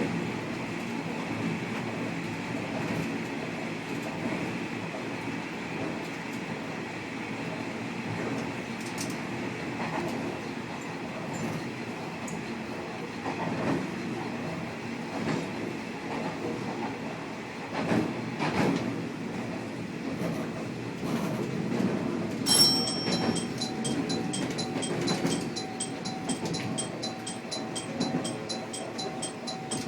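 Kashima Rinkai Railway diesel railcar running along the line, with steady wheel and motor noise and occasional rail joint knocks. About three quarters of the way through, a rapid, evenly repeating bell-like ringing starts and keeps going.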